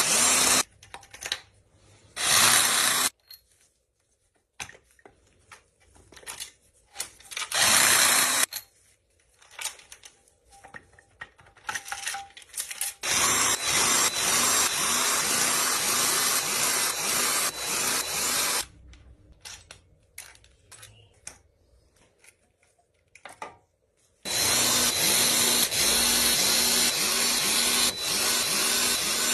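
Handheld power tool run in bursts: three short runs in the first nine seconds, then two long runs of about five seconds each, with scattered clicks between them.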